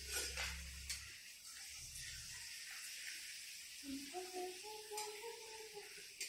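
Papad (crisp cakes) sizzling as they fry in hot oil in a small metal pan, with a metal spatula clinking and scraping against the pan a few times.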